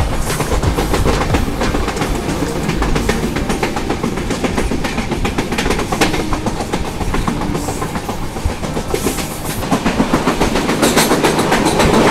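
Passenger train of LHB coaches running at speed, heard from an open coach door: a steady fast clatter of wheels over the rails over a constant rush of air. It grows louder near the end as the train enters a tunnel.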